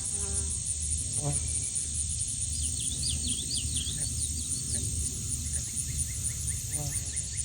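Outdoor frog and insect chorus: a steady, high pulsing insect trill, with two short pulsed frog croaks, one about a second in and one near the end, and a brief run of quick chirps in the middle.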